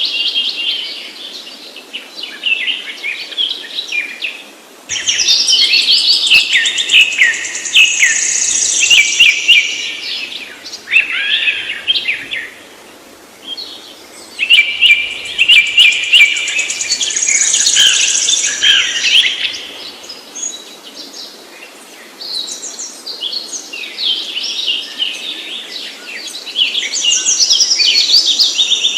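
Small birds chirping and twittering rapidly in dense, high-pitched bouts lasting several seconds each, with brief quieter lulls between them.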